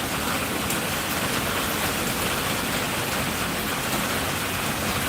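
Steady heavy rain falling and hitting surfaces.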